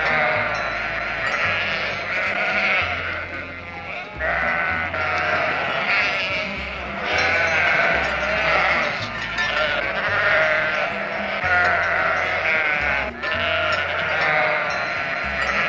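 Sheep bleating over and over, long wavering calls one after another, over background music with a low bass line.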